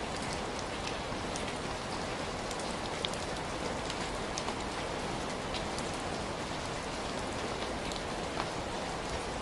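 Heavy rain falling steadily, a dense even hiss with the sharp ticks of individual drops striking a surface scattered through it.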